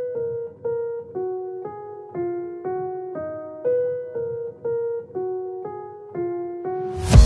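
Background music: a slow piano melody of single notes, about two a second, each ringing and fading. Just before the end a loud electronic track cuts in with heavy drum hits and a deep bass.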